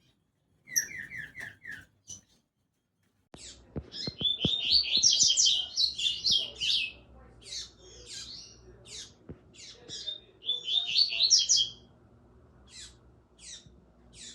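Small birds singing: a quick run of about five even notes, then two bursts of fast, high, varied twittering with scattered short chirps between them.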